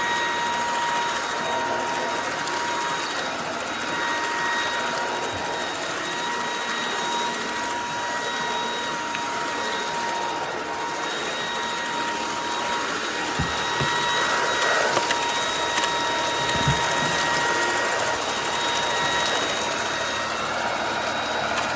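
FABULETTA cordless brushless stick vacuum running steadily: a high, even motor whine over the rush of air, with a few brief knocks in the second half.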